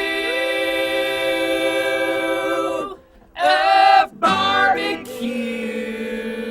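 Background music: singing that holds a long note, breaks off about three seconds in, then a few shorter sung notes and another long held note.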